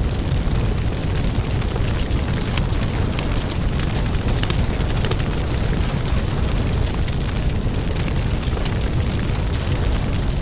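Fire burning in a fireplace: a steady rush of flame noise with a strong low rumble, dotted with frequent sharp crackles and pops.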